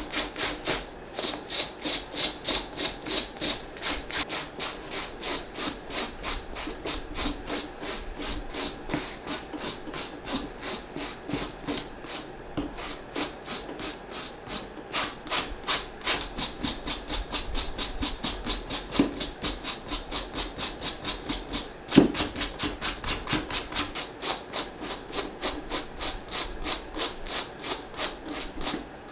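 Suede brush scrubbing a sneaker's suede upper in quick, even strokes, about three a second, with a short pause partway through and a single sharp knock about 22 seconds in.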